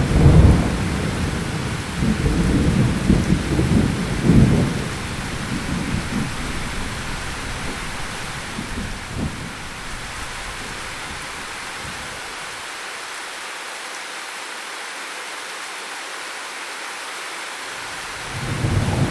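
Steady rain falling, with a long rolling rumble of thunder that fades away over the first ten seconds or so. The rain goes on alone for several seconds, then another roll of thunder begins to build near the end.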